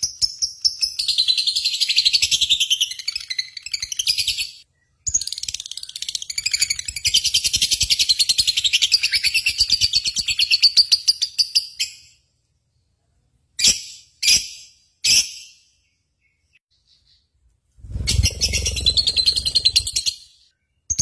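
Birds chirping rapidly in dense, high-pitched stretches that start and stop abruptly, with dead-silent gaps between them.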